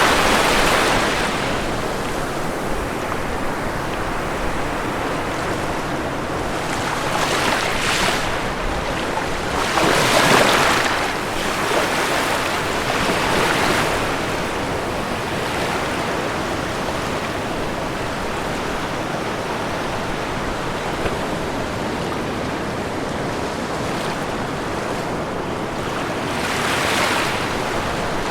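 Ocean waves breaking on a shore over a steady wash of surf: one wave crashes near the start, others at about 8 and 10 seconds in (the loudest), one softer at about 13 seconds and another near the end.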